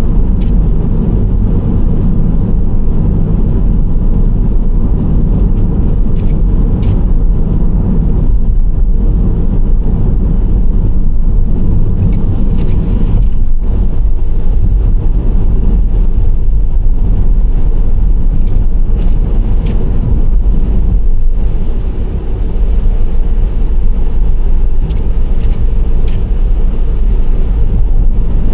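Nissan Serena C25 minivan driving steadily: continuous engine and tyre road noise as a low, even rumble.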